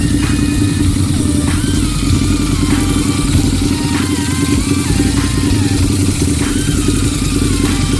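Harley-Davidson V-Rod Muscle's 1250 cc V-twin with a modified exhaust, running steadily at speed, loud and unchanging.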